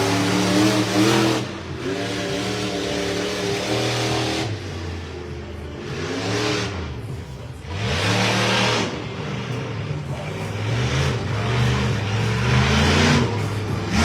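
Monster truck engine revving hard in repeated surges, its pitch climbing and dropping as the throttle opens and closes.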